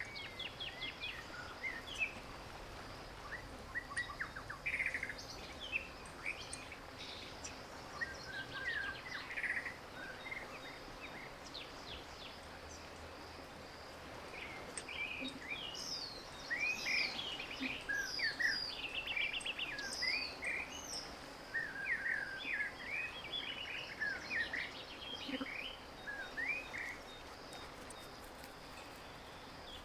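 Several birds chirping and calling, with short, quick notes that grow busier about halfway through, over a faint steady background hiss.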